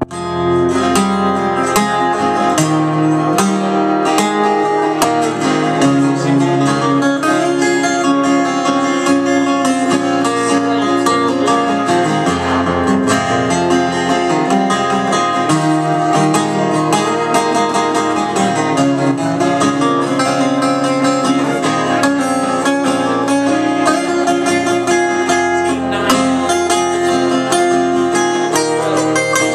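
Old-time string band music played live: acoustic guitar picked and strummed, with other plucked strings, steady and continuous, with no singing.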